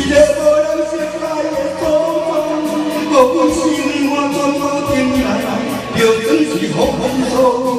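Music: a voice singing long held notes that waver slightly in pitch, changing note every second or so.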